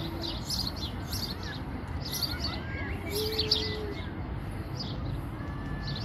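Songbirds chirping, many short high calls repeating and overlapping, over a steady low background rumble. Twice a brief low held note sounds, at the start and about three seconds in.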